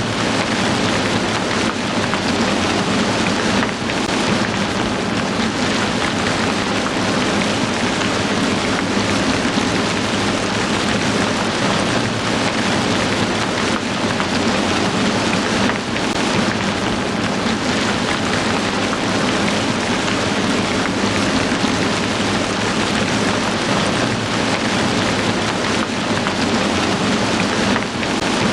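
Heavy rain falling steadily in a dense, even hiss, dipping slightly and briefly three times.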